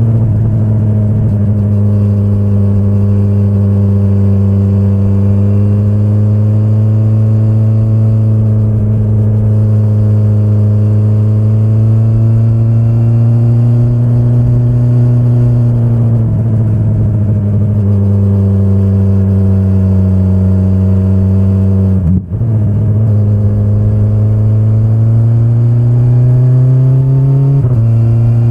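2025 BMW S1000RR's inline-four engine running under load, its pitch rising and falling gently with the throttle. About two-thirds of the way through there is a brief sharp drop in sound as the pitch changes, like a gear change, and near the end the pitch steps up quickly.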